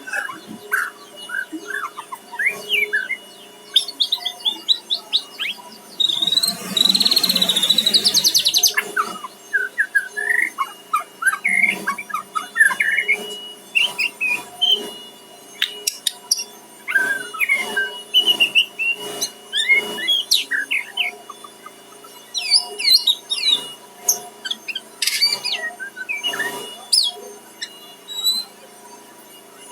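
White-rumped shama (murai batu) singing a varied song of short whistles, chirps and sweeping notes, with a loud, dense burst of rapid notes a few seconds in.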